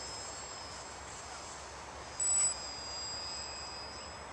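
Twin electric motors of a radio-controlled model airplane whining in flight: a thin, steady, high-pitched tone that sinks slightly in pitch. About halfway through there is a short, loud, high beep.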